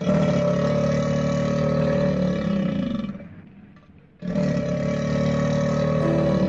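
Alligator bellowing: two long, low calls. The first fades out about three seconds in, and the second starts abruptly a second later.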